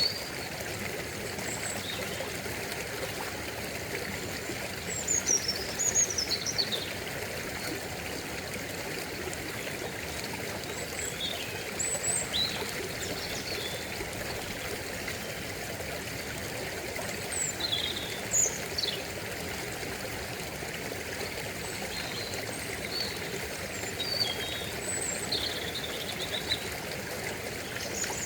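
Stream running steadily over stones, with small birds chirping in short high calls every few seconds.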